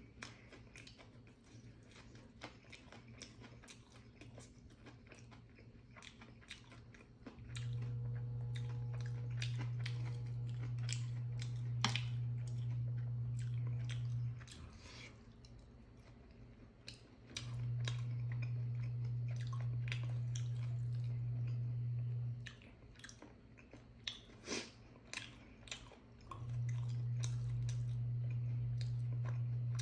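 A person chewing and biting food, with many short sharp clicks and mouth noises. A steady low hum of unknown origin comes and goes three times, for stretches of about seven, five and four seconds, and is the loudest sound when it is on.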